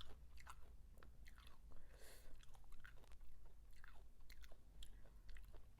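A person chewing a mouthful of crunchy food, fresh parsley leaves with the salad, close to the microphone: irregular crisp crunches, about two a second.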